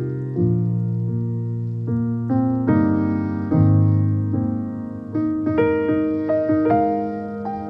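Piano background music: soft chords and a melody, each note struck and fading.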